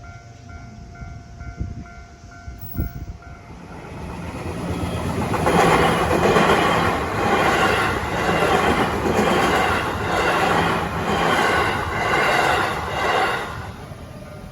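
Level crossing warning bell ringing, then an electric train passing over the crossing from about four seconds in, its wheels clattering over the rail joints in a regular beat about once a second, dying away near the end.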